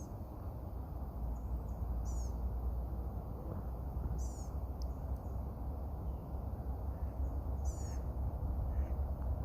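A songbird calling three times, each call a brief run of quick, very high, falling notes, over a steady low rumble.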